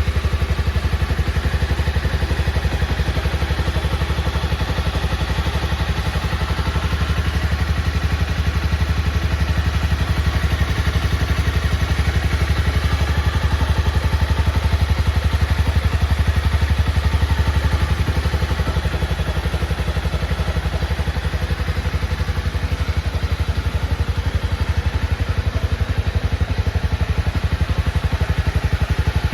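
2018 Honda CB250R's single-cylinder four-stroke engine running steadily at idle, with an even, fast exhaust pulse and no revving.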